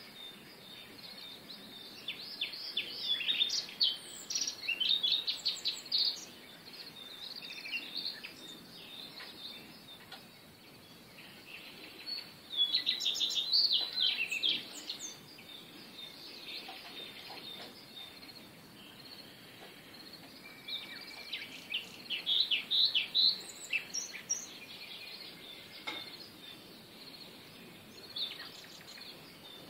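Small birds chirping and twittering in several bursts of quick, high notes a few seconds apart, over a faint steady outdoor hiss.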